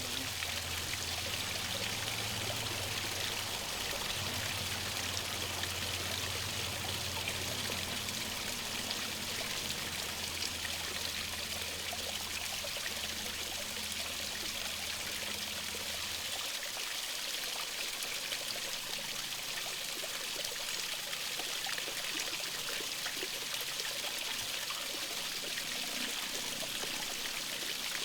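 Stream water flowing steadily, with a faint low hum underneath that stops about halfway through.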